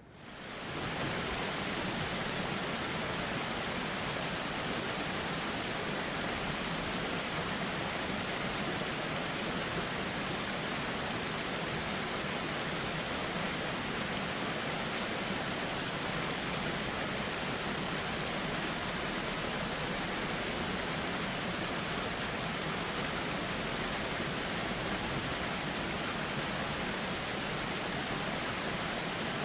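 Steady, even rushing of a flowing river, swelling back up within the first second after a brief dip.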